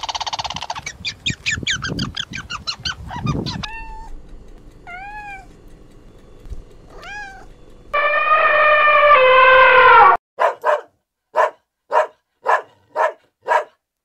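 A run of animal calls. First a grey squirrel's fast chattering alarm call, followed by a few short squeaks that rise and fall. Then a young elephant trumpets for about two seconds, and a husky-type dog gives seven short barks in an even rhythm.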